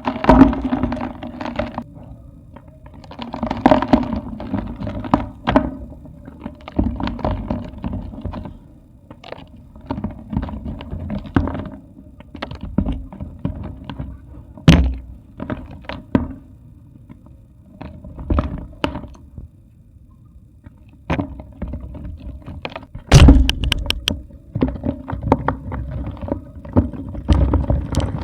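Small dry clay pots being crushed and crumbled: irregular crunches, cracks and dull thunks, with a cluster of sharp cracks about three-quarters of the way through. A steady low hum runs underneath.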